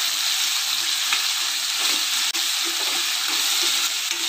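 Chopped shallots and tomato sizzling steadily in hot oil in a kadai while a spatula stirs them and scrapes the pan.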